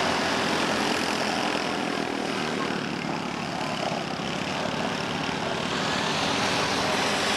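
Small race cars' engines running as the field laps the oval, a steady, dense engine noise with no breaks.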